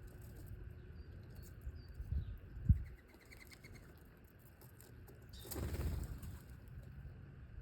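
Birds' wings fluttering, with a short run of quick chirps and two low thumps, the second one sharp and loud.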